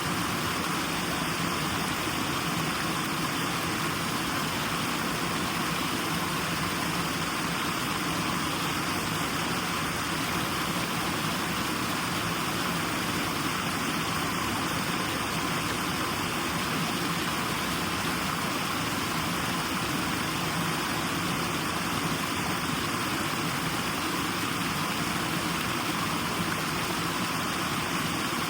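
Steady, unchanging white-noise hiss, with no breaks or separate sounds, strongest in the upper-middle range.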